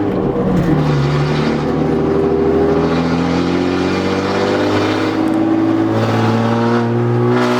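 Straight-piped BMW E36 exhaust, loud, heard from inside the car while driving: the engine note dips about a second in, then climbs slowly as the car pulls.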